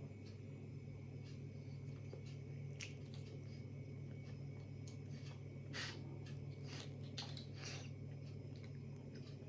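Faint scattered clicks and crackles of a candy being handled and eaten, a few at a time, over a steady low hum.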